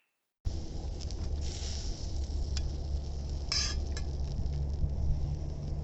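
Food sizzling in a pan over a campfire, with a few light clicks of utensils and a short brighter burst of sizzle about three and a half seconds in.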